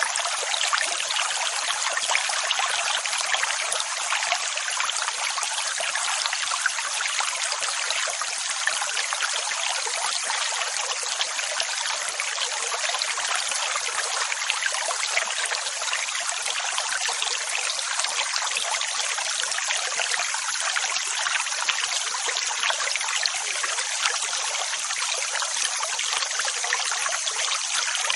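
Steady rushing water noise, hissy and bright with no low rumble, going on evenly without the rise and fall of separate waves.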